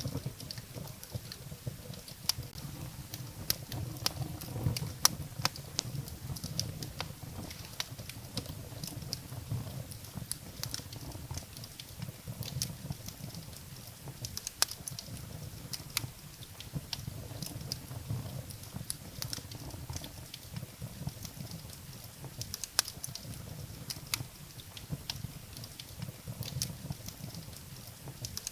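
Firewood burning in a fireplace, crackling with many irregular sharp pops and snaps over a steady low rumble. The loudest pop comes about five seconds in.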